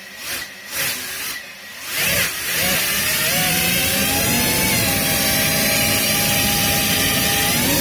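Small FPV quadcopter's brushless motors spinning up about two seconds in and then running steadily, their whine rising and then holding one pitch, with a short rise near the end. A few clicks come before the motors start.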